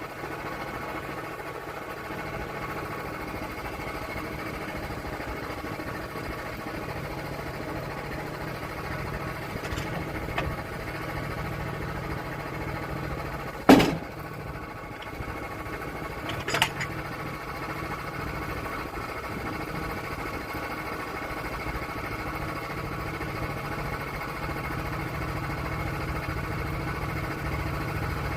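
Portable sawmill's engine running steadily. About halfway through comes a sharp knock, the loudest thing heard, and a smaller one about three seconds later.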